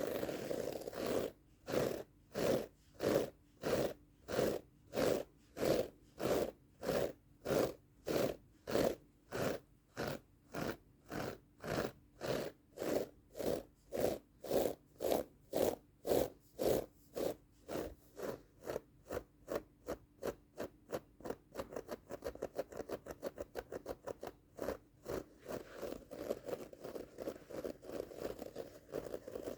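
A rug's pile being scratched in close-up, in regular rhythmic strokes. The strokes come about twice a second, speed up to a rapid scratching past the middle, and run together into continuous scraping near the end.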